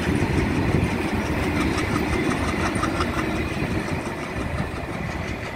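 Goods train's hopper wagons rolling past, a steady rumble of steel wheels on rail with faint repeated clicking, fading slightly toward the end as the rear of the train draws away.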